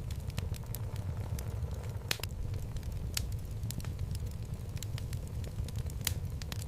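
Wood fire burning in a fireplace: a steady low rumble of flame with scattered sharp crackles and pops from the logs, the loudest pops about two, three and six seconds in.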